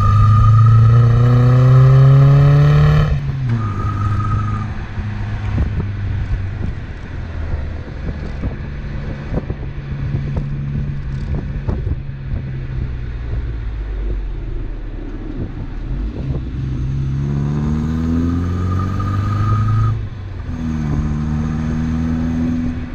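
Volvo 244's B200 four-cylinder engine running through a Simons sport exhaust while driving. The revs climb for about three seconds and drop, then hold steadier. Near the end they climb twice more, with a shift between the two climbs.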